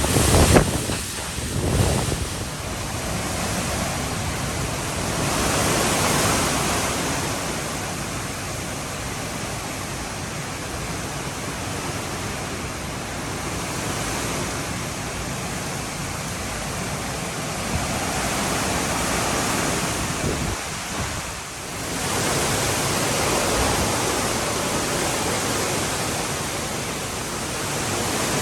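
Hurricane-force wind gusting with heavy rain, a steady rushing noise that swells into stronger gusts about five seconds in and again after about twenty-two seconds. In the first two seconds the wind buffets the microphone with a few heavy thumps.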